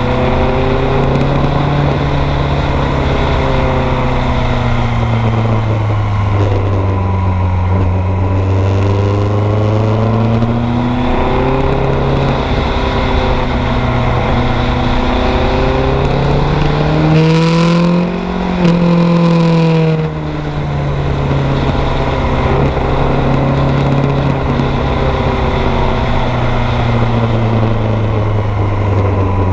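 A 1986 Kawasaki GPZ900R's inline-four engine running under way, its pitch slowly falling and rising with the throttle. Past halfway the revs climb to a peak, broken by two brief dips, then ease back down.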